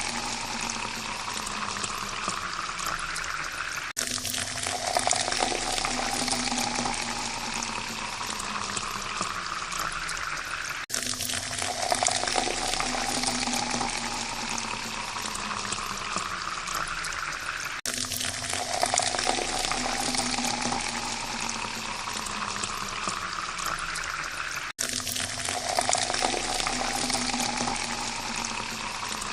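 Water poured into a glass: a steady splashing stream whose pitch rises as the glass fills. The pour repeats about every seven seconds, with a brief break between pours.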